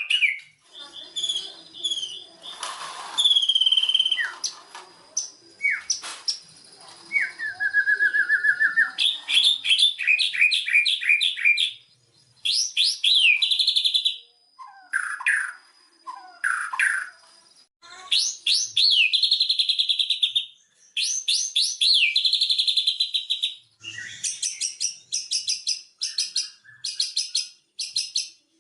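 White-rumped shama (murai batu) singing a loud, varied song of clear whistled glides, rapid trills and runs of fast repeated notes, with short pauses between phrases.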